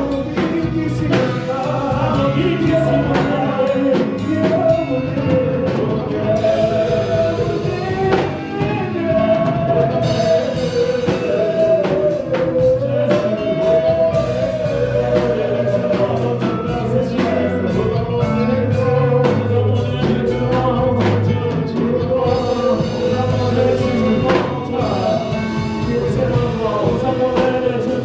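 Gospel worship music: voices singing over a band with drums keeping a steady beat.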